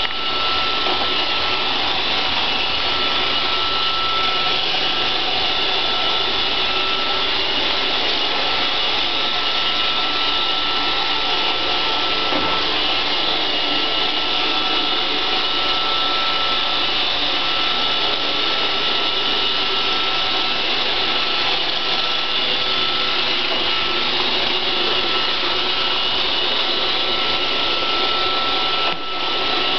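iRobot Roomba 560 robot vacuum running as it cleans the floor: a steady whir of motor and brushes with a thin high whine, dipping briefly near the end.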